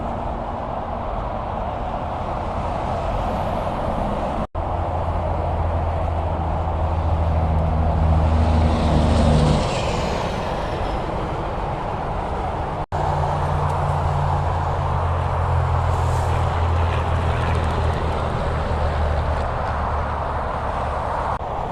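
Highway traffic with heavy trucks' diesel engines humming over steady tyre and road noise. One vehicle passes close about nine seconds in, swelling louder. The sound drops out briefly twice where clips are joined.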